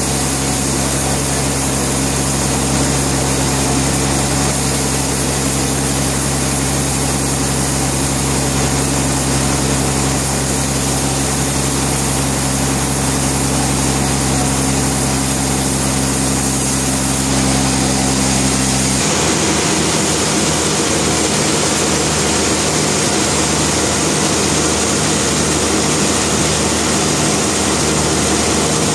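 Sawmill machinery running steadily, with an engine-like hum. About two-thirds of the way through the hum changes abruptly to a different, lower-lying pattern.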